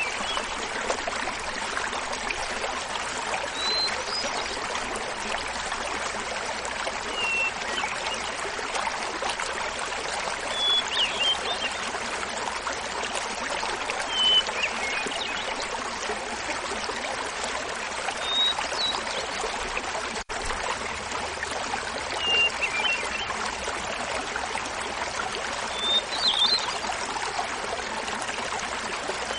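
Small mountain waterfall splashing steadily, with a hermit thrush singing over it: about eight flute-like phrases, one every three to four seconds, each a held opening note followed by a quick flourish, pitched higher or lower from phrase to phrase.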